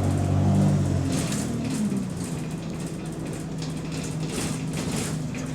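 Single-deck bus's diesel engine running, heard from inside the cabin; the engine note is strongest in the first second, then falls back and settles to a steadier, lower drone. Short hissing puffs come and go over it, on a bus that has an exhaust leak.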